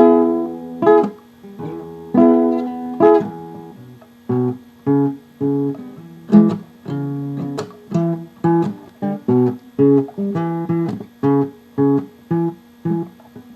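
Solo acoustic guitar playing an instrumental blues break. A few strummed chords ring out about once a second, then give way to short, separate picked notes in a steady rhythm that quickens toward the end.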